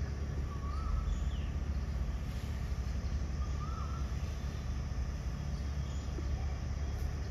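Steady low outdoor rumble with two faint bird calls, each a short rising-and-falling note, about half a second and about three and a half seconds in.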